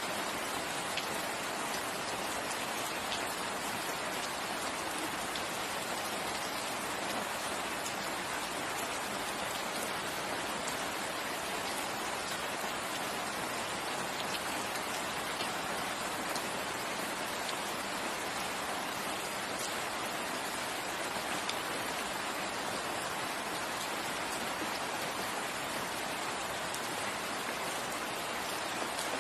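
Steady rain falling in a forest, a constant hiss of many small drops pattering on foliage and the ground.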